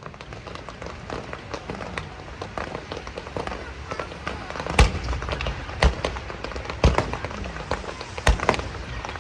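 Aerial fireworks going off: a continuous dense crackling, with about five loud bangs of shells bursting in the second half.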